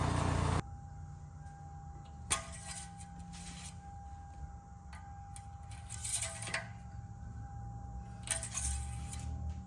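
A louder sound cuts off abruptly just after the start, leaving a steady low hum and a faint steady high tone, over which come a few scattered light clinks and rustles of small objects being handled.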